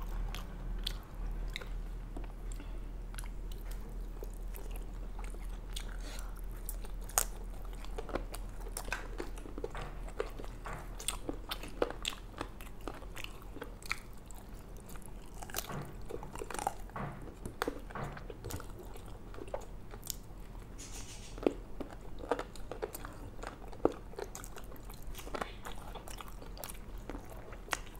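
Close-miked eating: chewing and biting food, with scattered crunches and short mouth clicks over a low steady hum.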